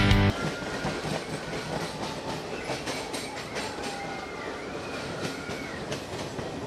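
Passenger train running through a tunnel: a steady rumble and clatter of steel wheels on the rails, with faint high wheel squeals that rise and fall in pitch. Loud music cuts off just at the start.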